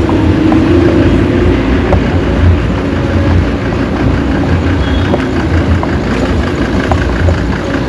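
Street traffic: a motor vehicle's engine running close by, with a heavy, uneven low rumble.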